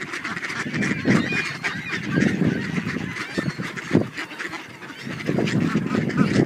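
Geese and ducks calling at once, with many overlapping honks and quacks coming irregularly.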